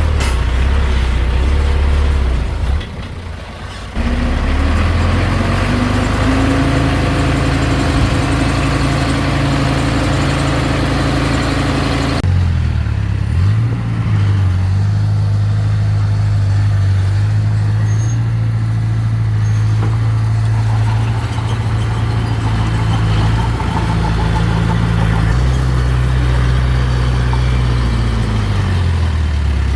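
Diesel engine of heavy earthmoving machinery running under work, its pitch rising as it revs up a few seconds in. The engine sound shifts abruptly twice, about four and twelve seconds in.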